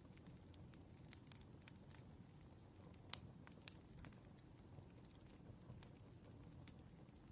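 Faint crackling wood fire: irregular pops and snaps over a low steady rumble, the loudest snap about three seconds in.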